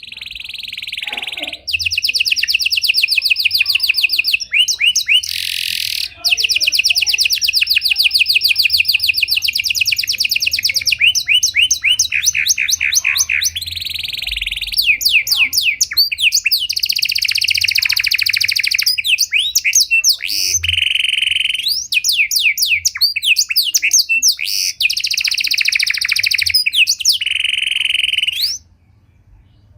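Panda canary singing a long, varied song: runs of fast repeated chirps alternate with held, buzzing rolls. The song stops abruptly near the end.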